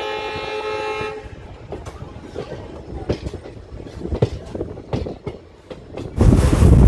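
A passenger train's locomotive horn sounds a steady chord that stops about a second in, followed by the coach wheels clicking and knocking irregularly over rail joints and points. Near the end, loud wind noise buffets the microphone.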